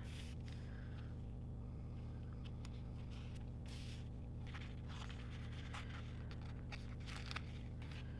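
Soft, scattered rustles, scrapes and small ticks of paper sticker sheets being handled as stickers are peeled off and pressed onto a planner page, over a steady low hum.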